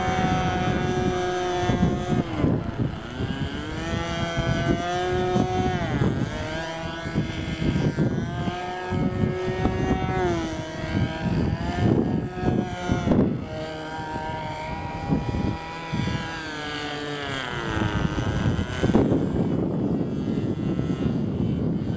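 Thunder Tiger .42 two-stroke glow engine of a radio-controlled model airplane running in flight. Its pitch rises and falls, dropping several times as the plane passes and the throttle changes.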